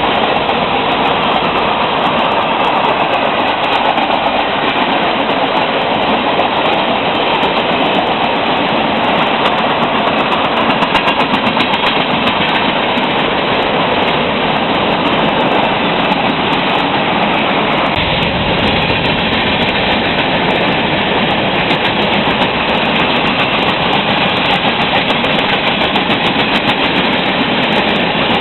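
A freight train of tank cars rolling past at speed: the steady, loud noise of steel wheels running on the rails, with the sound turning heavier and deeper about two-thirds of the way through.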